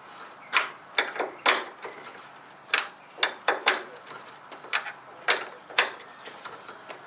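A 12 mm wrench working loose the mounting bolt of a car hood strut: a run of irregular sharp clicks and knocks, about two a second, unevenly spaced.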